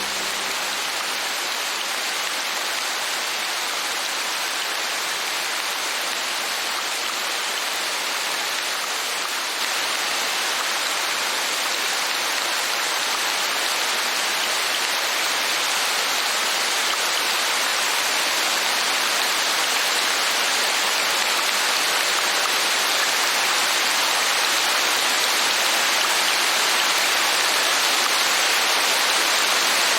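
Steady heavy rain, a dense even hiss with no separate drops standing out, getting a little louder about ten seconds in and then slowly building.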